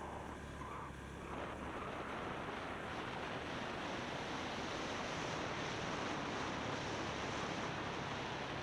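Wind rushing over an action camera's microphone on a moving motorbike, a steady roar that swells about a second in as the bike gathers speed.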